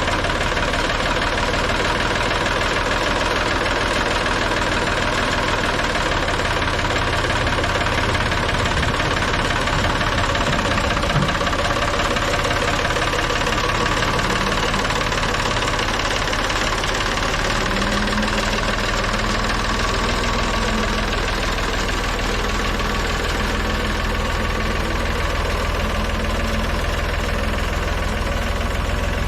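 Tractor-backhoe engine idling steadily, with a faint extra hum joining in past the middle.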